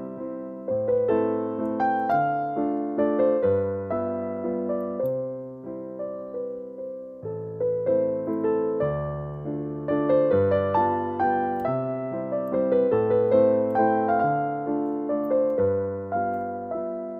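Background piano music: a gentle melody of decaying notes over a slow bass line.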